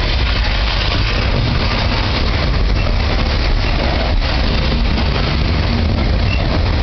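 CSX coal train's steel hopper cars rolling past close by, a loud, steady rumble of wheels on rail.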